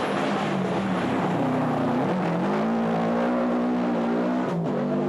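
Subaru Impreza 555 WRC rally car's turbocharged flat-four engine running hard. Its pitch dips and then climbs again about two seconds in, like a gear change followed by pulling, and drops off near the end.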